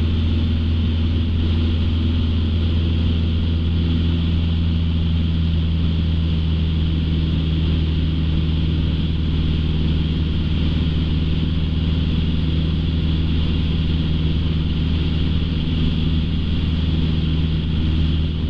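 Light aircraft's piston engine and propeller droning steadily in cruise, heard inside the cabin.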